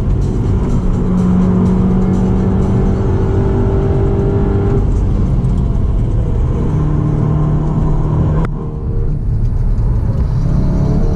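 The Seat Leon Cupra 290's turbocharged 2.0-litre four-cylinder engine and tyre and road noise, heard from inside the cabin at high speed. The engine note drops in pitch about halfway as the car slows. About eight and a half seconds in there is a brief dip in the sound with a sharp click.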